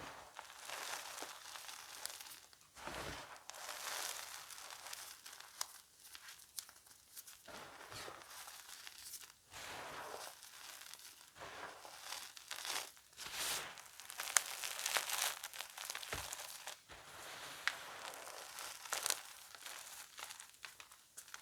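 Blocks of gym chalk being crushed and crumbled by hand, giving irregular crunches and fine crackles, with a few sharper snaps in the second half.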